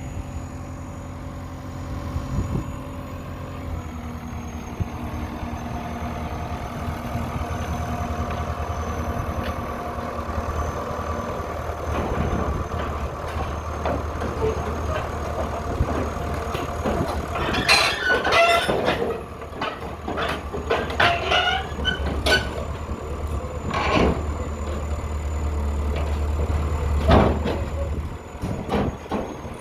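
Komatsu D31E-20 bulldozer's diesel engine running steadily as it climbs onto a towing trailer. Through the second half come repeated metallic squeals and clanks from the crawler, with a dense cluster about two-thirds of the way through and a loud one near the end.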